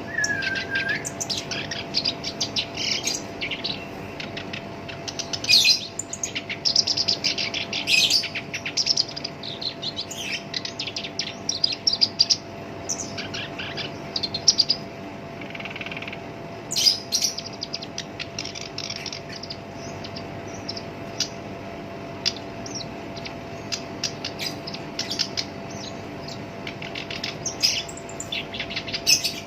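Black-browed reed warbler singing a harsh, rough song of fast, dense chattering notes in phrases, busiest in the first half and sparser for a few seconds past the middle.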